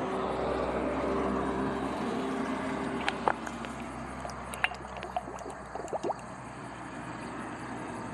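Motor oil pouring from a bottle through a funnel into a sawmill engine's oil fill. A few light clicks and taps come between about three and six seconds in.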